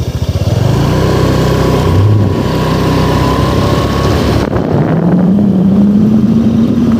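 Motorcycle engine running close by, getting louder about half a second in; about four and a half seconds in its note changes to a steadier, slightly rising hum.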